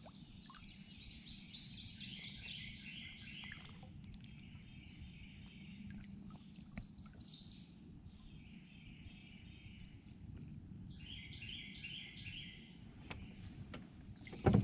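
A songbird singing a fast, high trilled phrase three times, each lasting two to three seconds, over a faint steady high-pitched hum and quiet outdoor background. A few light knocks, with a sharper one just before the end.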